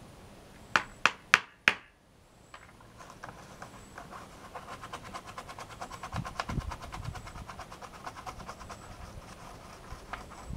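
Four sharp clicks in quick succession about a second in, then fast, even scrubbing strokes, several a second, on the plastic case of an old 386 computer being cleaned of stuck-on dirt.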